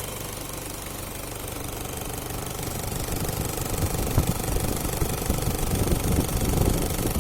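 Toyota 1KZ-TE four-cylinder turbodiesel idling warm on a test stand, with the usual diesel knock. It grows louder and rougher-sounding from about three seconds in.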